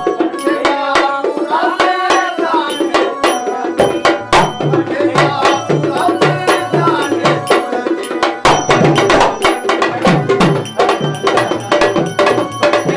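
Traditional Marathi tamasha folk music: fast, dense hand-drum strokes over a sustained melodic accompaniment.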